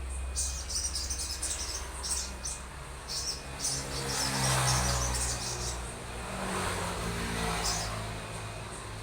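Songbird giving short, high chirps in quick repeated bursts. A motor vehicle engine passes in the background, loudest about halfway through.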